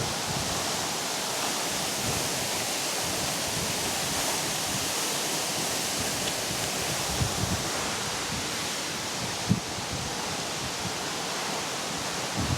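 Waterfall: a steady rush of water falling onto rock, even and unbroken.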